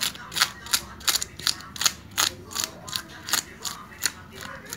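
Knife blade scraping the scales off a parrotfish in quick, even strokes, about three a second, each a short, crisp rasp.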